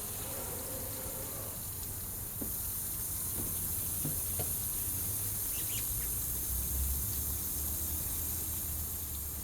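Low, steady rumble of a distant jet airliner flying high overhead, swelling in the second half, under a constant high hiss, with a few faint bird chirps in the middle.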